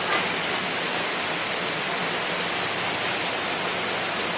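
Stream water rushing steadily, an even unbroken sound of flowing water.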